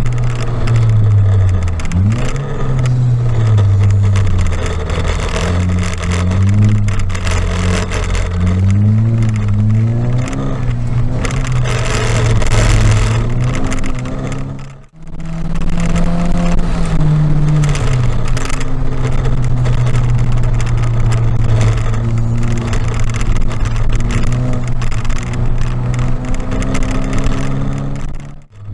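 Car engine heard on board during hard track driving, revving up and dropping back again and again through gear changes and corners, over a steady hiss. The sound breaks off abruptly about halfway through and picks up again straight away.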